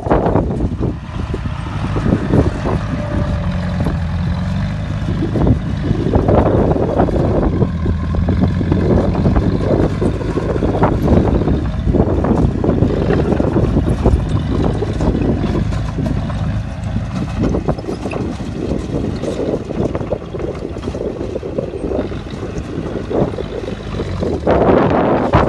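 Bulldozer's diesel engine running steadily under load, a low even drone that swells louder and eases off several times.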